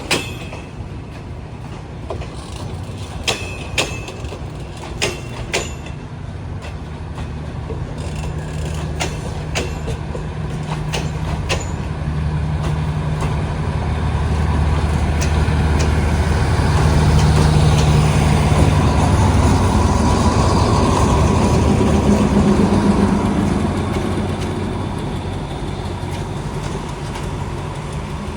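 Diesel locomotive of an arriving passenger train. A few sharp clicks come in the first seconds, then a steady low engine hum and running noise grow to their loudest past the middle and ease off near the end.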